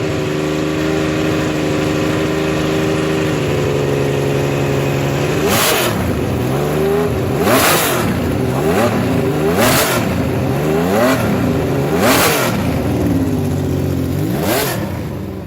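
Laverda V6 racing motorcycle engine holding a steady high idle, then blipped hard about five times, each rev rising and falling in pitch roughly every two seconds. The sound cuts off abruptly at the end.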